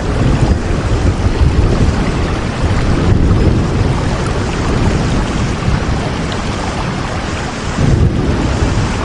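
Steady heavy rain with a deep, low rumble that swells and eases every few seconds, as in a thunderstorm.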